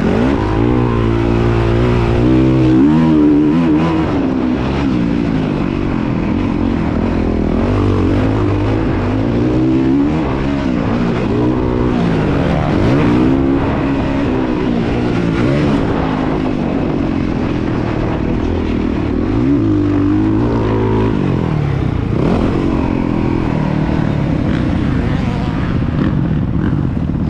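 Motocross bike engine running hard, its pitch climbing and dropping again and again as the throttle is worked and gears change.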